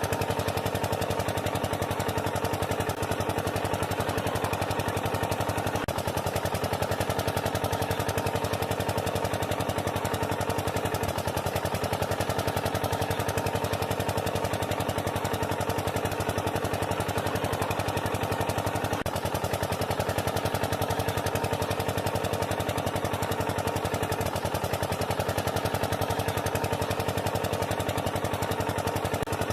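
Small motor running steadily with a fast, even clatter, unchanging throughout.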